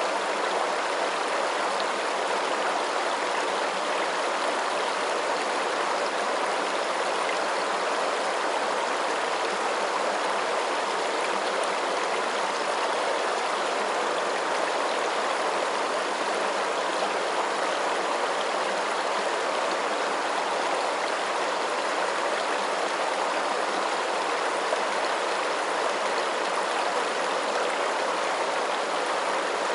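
Steady rushing and babbling of flowing stream water, an even wash with no distinct splashes or changes.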